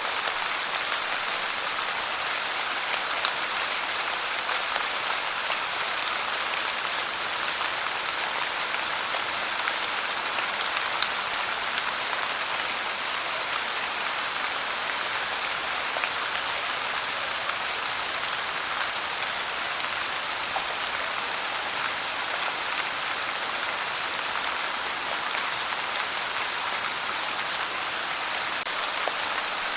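Steady rain pouring down, an even hiss with scattered individual drops ticking.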